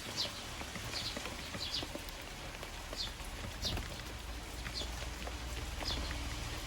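Eurasian tree sparrows chirping, short downward-sliding chirps about one a second, over a steady patter of rain.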